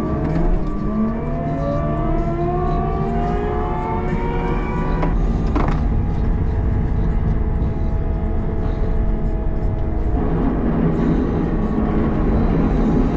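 CAT 906 wheel loader's diesel engine running, rising steadily in pitch over the first five seconds as it revs up. There is a single clank about five and a half seconds in, then it runs at steadier speed under load.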